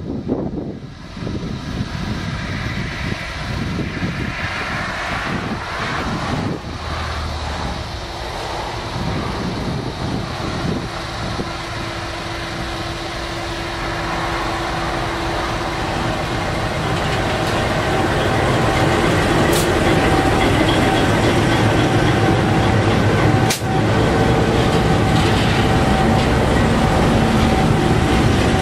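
GE-built EL class diesel-electric locomotive hauling a coal train approaches and passes close by, its engine running and its wheels rolling on the rail, growing louder as it draws alongside. A steady whine joins in as the locomotive passes, and there are two sharp clicks in the second half as the loaded coal hopper wagons begin to roll by.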